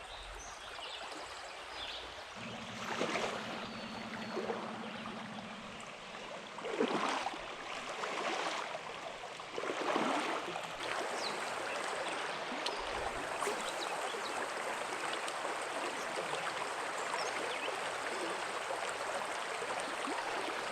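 Creek water running and babbling steadily, with a few louder splashes in the first half. A faint low hum runs for a few seconds near the start.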